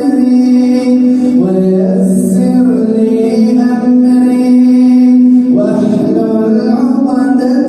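Male Quran reciter chanting in long, held melodic notes (tajweed recitation), shifting pitch about a second and a half in and again near six seconds.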